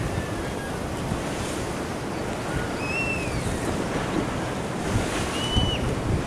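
Ocean surf washing along a sea wall, with wind buffeting the microphone. Two short, high, arched whistles cut through, about three seconds in and again near the end.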